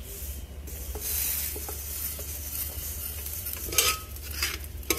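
Cracked wheat (dalia) sizzling as it fries in hot ghee in a pressure cooker, stirred with a metal spoon that scrapes against the pot. The sizzle sets in about a second in, and there are a couple of sharper scrapes near the end.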